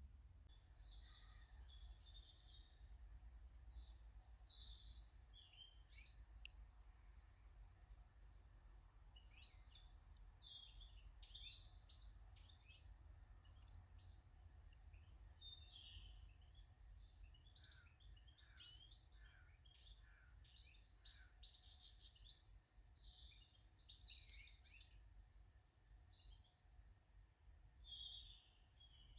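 Faint garden birds chirping and calling, many short high notes scattered throughout, busiest in the middle, over a low steady rumble.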